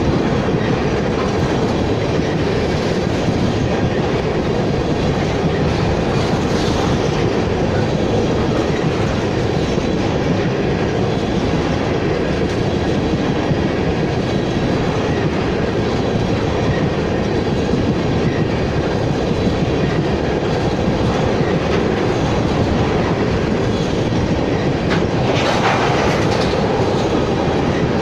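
Empty oil tank cars of a freight train rolling past close by: a steady rumble of steel wheels on the rails, with a brief harsher burst of noise near the end.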